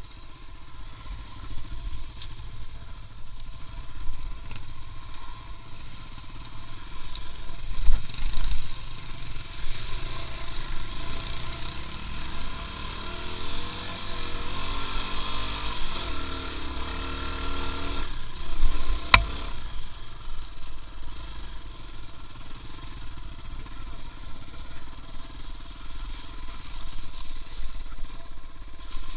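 A vehicle engine running steadily with a low rumble, with a single sharp click about nineteen seconds in.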